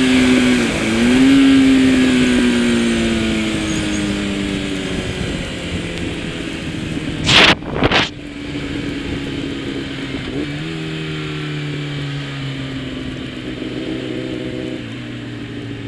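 Kawasaki ZX10 superbike's inline-four engine running at moderate revs, heard from the bike. The note slowly falls as the bike eases off, and it dips and picks up twice, as with gear changes. Two short, loud bursts of noise come a little past the middle.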